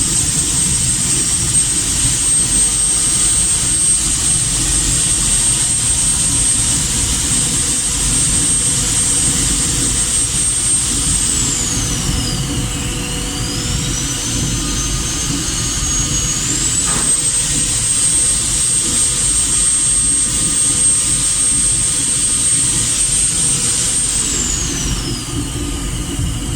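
Angle grinder running on car body sheet metal, a loud high whine over a harsh grinding rumble. Twice the whine drops in pitch as the disc is pressed into the metal and slows, once about halfway and again near the end; a single sharp click comes in between.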